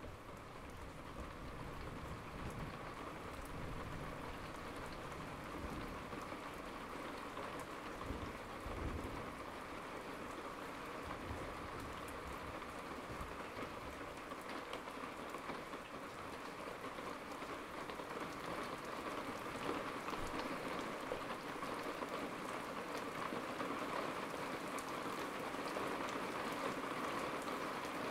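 Steady rain falling, growing gradually heavier, with a low rumble of distant thunder during the first ten seconds or so.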